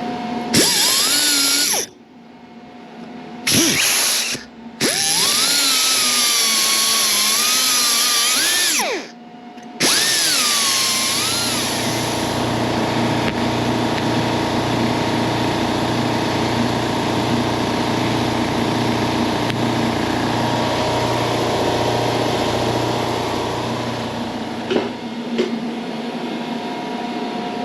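Power tool cutting a steel seat-frame bracket in several runs with short breaks, its whine rising and falling in pitch with the load. Then a steadier, quieter hum for the rest.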